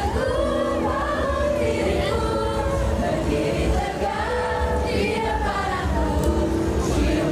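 Live pop concert music amplified over a festival sound system, with many voices of the crowd singing the melody along with the band over a steady bass.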